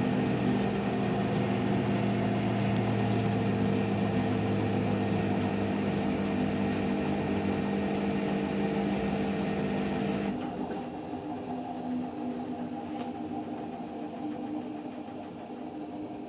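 Hotpoint Active Care washing machine running with a steady motor hum. About ten seconds in, the hum drops off and the machine carries on more quietly.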